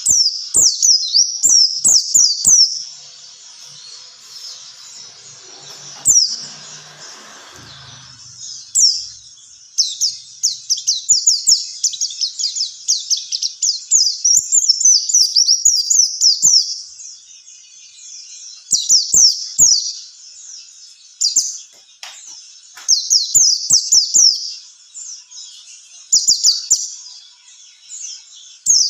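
White-eye (pleci) song: rapid, high-pitched twittering made of fast runs of quick falling notes, coming in bursts with short pauses between them.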